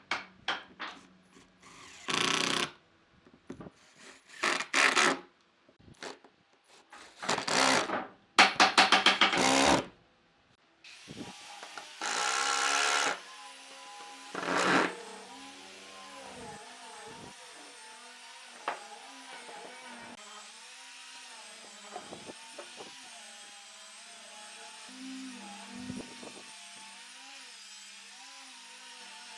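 Power tool working wood: about ten seconds of short, loud bursts, then a steadier, quieter run from about eleven seconds on, its pitch wavering as the load changes.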